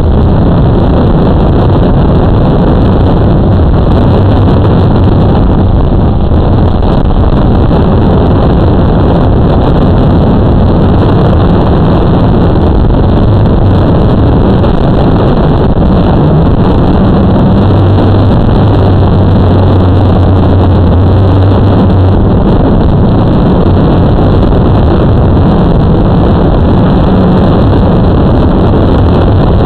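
Blade 350 QX2 quadcopter's four electric motors and propellers running in flight: a loud, steady drone with a low hum that wavers slightly as the throttle changes.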